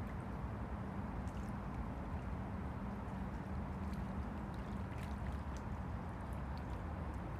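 Small waves of the Han River lapping against the bank: a steady wash of water with small splashes and drips. A low steady hum sits underneath and fades out about halfway through.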